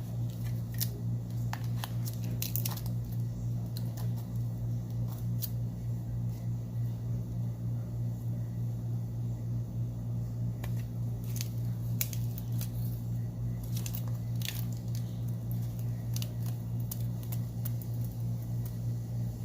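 Light clicks and brief scrapes of small repair tools working on a phone's internals, clustered early and again around the middle, during removal of a swollen battery. A steady low electrical hum runs underneath.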